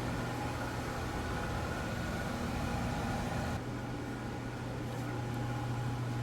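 Steady low room hum with a hiss over it; the hiss thins about three and a half seconds in.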